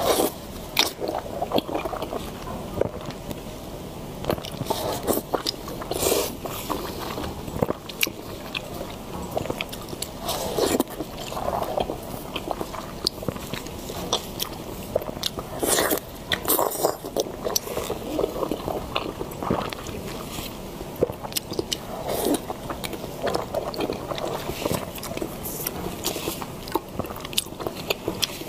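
Close-miked biting and chewing of soft congealed duck blood: many irregular wet smacks and clicks from the mouth.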